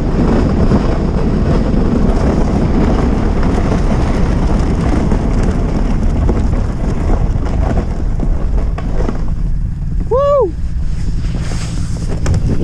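Wind buffeting the microphone in blizzard conditions over a steady vehicle rumble. About ten seconds in, a single short tone rises and falls in pitch.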